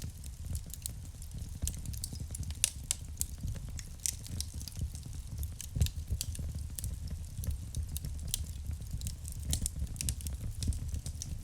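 Wood fire burning in a fireplace: a steady low rumble of the flames, with irregular sharp crackles and pops from the burning logs, a few of them louder.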